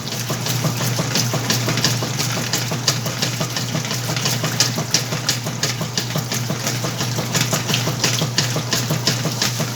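Whirlpool washing machine running its wash cycle on a load of clothes: a steady low motor hum under a constant stream of irregular water swishes and sloshes.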